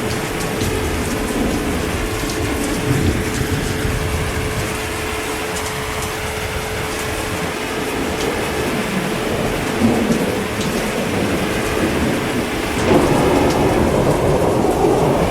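Steady heavy rain with thunder rumbling low underneath; the storm swells louder about three seconds before the end.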